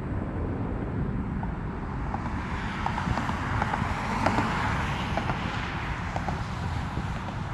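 Jet airliner passing, its rushing noise swelling to a peak about four seconds in and then fading, over a steady low rumble of wind on the microphone.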